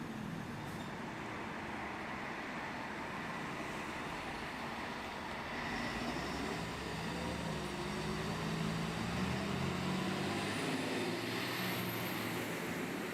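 Fire truck engine running amid road traffic noise, the engine getting louder about halfway through.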